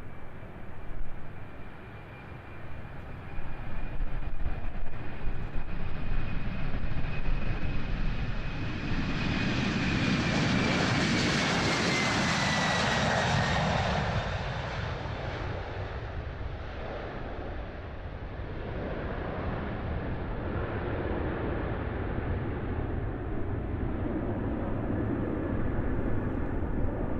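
Boeing 767-300ER's twin turbofans at full takeoff thrust as the airliner passes on its takeoff roll. A steady high whine falls in pitch as it goes by, about halfway through. The engine noise swells and then eases into a lower, lingering rumble.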